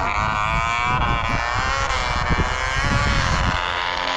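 Dirt bike engine running, its pitch rising and falling gently as the throttle is worked, with rumbling wind noise on the microphone.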